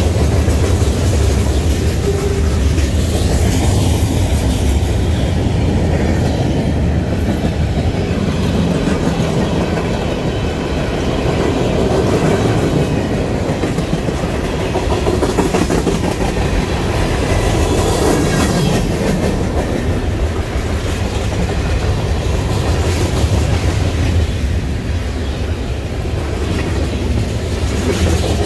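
Freight train cars (tank cars, boxcars and flatcars) rolling steadily past on the track: a continuous low rumble with the clickety-clack of wheels over rail joints.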